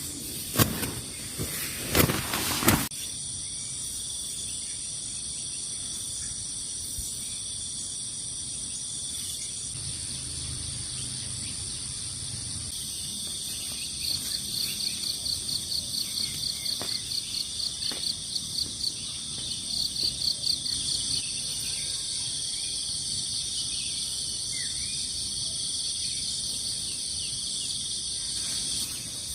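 Insects, crickets or similar, singing in a steady high-pitched chorus, with a faster pulsed chirping of about four pulses a second in the middle stretch. A few sharp knocks come in the first three seconds.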